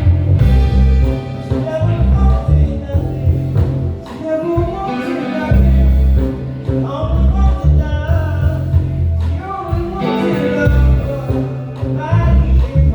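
A live band playing, with a heavy, pulsing bass line, drums and keys under a gliding melodic lead line.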